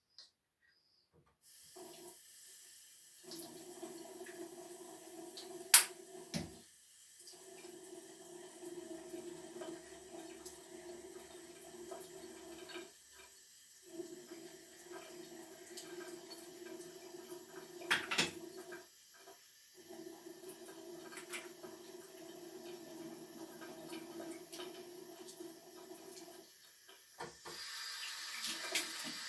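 Water running from a tap into a sink, the flow cut off briefly several times, with a couple of sharp knocks. Near the end it turns into a brighter hiss.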